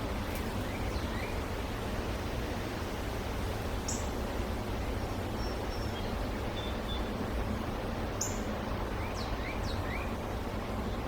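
Small wild birds chirping over a steady background hiss: short high chirps every few seconds, with a few quick falling call notes.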